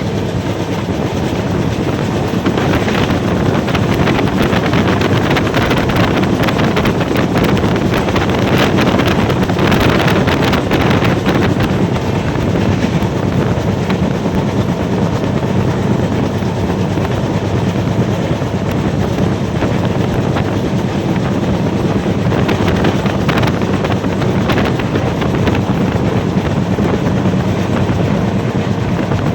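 Train running steadily at speed: a continuous rumble and rush, with faint clicks from the rails now and then.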